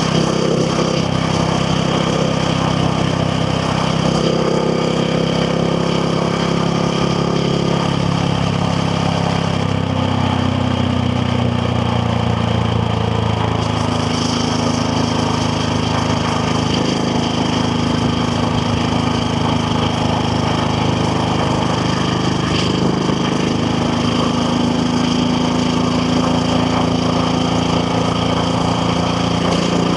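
KTM 690 Duke R's single-cylinder engine running at moderate, fairly steady revs while ridden. Its pitch shifts down and up about ten seconds in, then climbs slowly through the second half.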